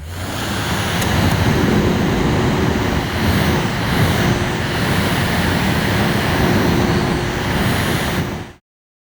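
Loud, steady rushing noise like air blasting, with a faint steady hum underneath; it cuts off abruptly near the end.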